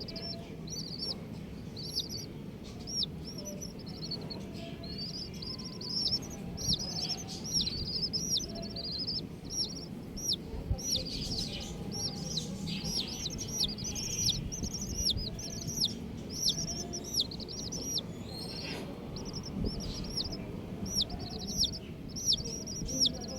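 Baby chicks peeping continuously: many short, high chirps a second from several chicks, over a low steady background rumble.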